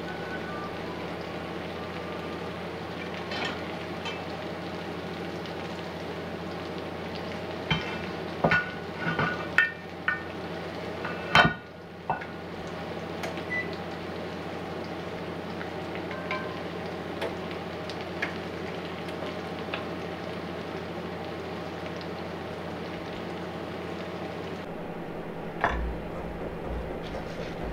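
Stir-fry sizzling steadily in a cast iron wok, over a low hum. A cluster of metal clanks from about 8 to 12 seconds in, as the lid comes off a cast iron Dutch oven of rice. Near the end, a dull thump on a wooden cutting board.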